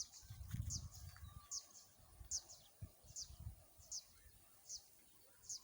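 A bird repeating one short, high, falling chirp about every three-quarters of a second, with a couple of brief low rumbles in between.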